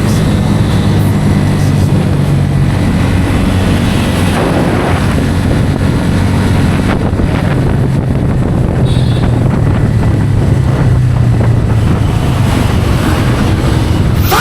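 Bajaj Pulsar N160's single-cylinder engine running at a steady cruise, its pitch shifting a little in the first few seconds, with wind rushing over the microphone.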